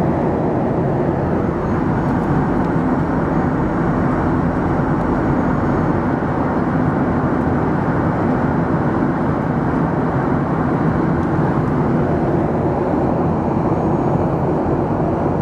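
Steady cabin noise of a jet airliner on its landing approach: the even rush of engines and airflow, with no distinct events.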